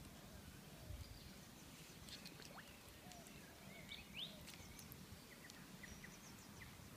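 Near silence: a faint outdoor background with scattered small bird chirps.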